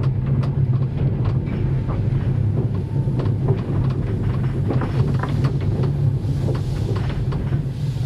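Train running along the track: a steady low rumble with irregular clanks and knocks.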